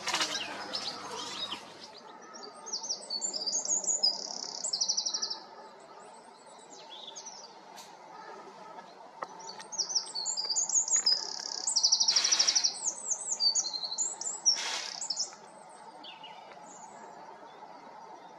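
A small songbird singing two high-pitched phrases, each about three seconds long and ending in a fast, loud trill. The second phrase starts about ten seconds in.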